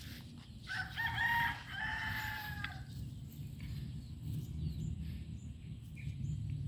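A rooster crowing once, a single call of about two seconds starting just under a second in, over a steady low rumble.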